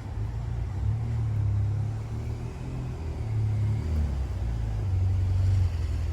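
Low, steady motor-vehicle rumble that rises and falls a little in level.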